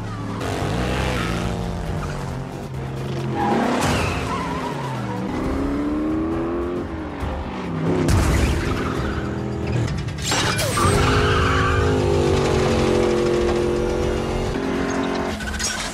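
Vintage cars' engines revving hard in a street race, climbing in pitch and dropping back several times, with sharp noisy hits and a film music score underneath.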